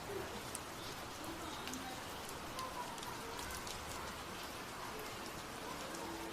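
Steady rain falling during a storm, a constant hiss with many individual drops ticking sharply on a nearby surface.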